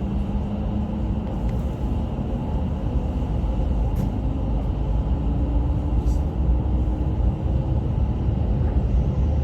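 E5 series Shinkansen train running: a steady low rumble, with a faint tone that slowly rises in pitch and a few light clicks.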